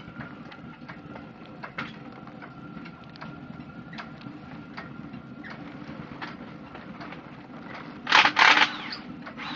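Scattered metallic clicks and knocks of hand work on a car engine bay, over a steady low background noise, with two loud harsh rattling bursts a little after eight seconds in.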